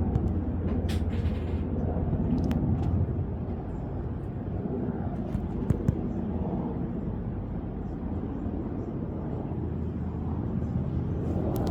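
A military utility helicopter in flight, giving a steady low rumble that swells and eases slowly, with a few short sharp ticks over it.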